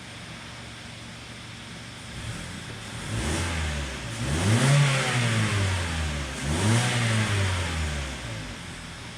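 Mazda 3's four-cylinder engine idling, then revved twice in quick succession, the pitch rising and falling each time, and settling back to idle near the end.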